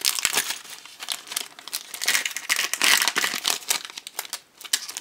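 Blind-bag wrapper crinkling and tearing as it is opened and handled, an irregular run of crackles that eases off briefly near the end.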